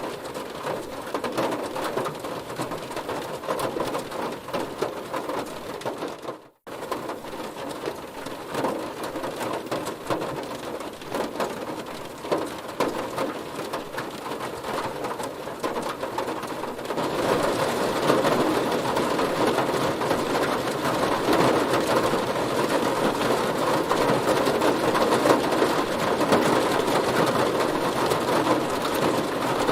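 Heavy rain falling on a car, a dense even patter of drops. It cuts out briefly about six and a half seconds in, then returns and grows louder and fuller from about seventeen seconds in.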